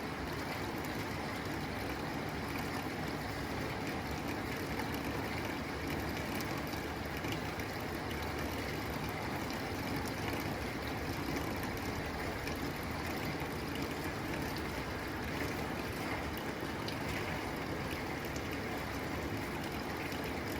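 Steady rain falling on a tin roof: an even hiss with scattered drop ticks.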